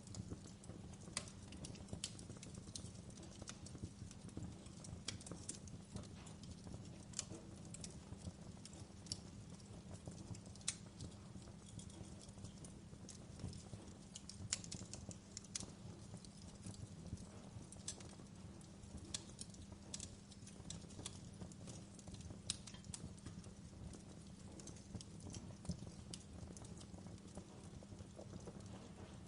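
Wood fire crackling in a fireplace: irregular pops and snaps, a few louder than the rest, over a steady low rumble of the burning fire.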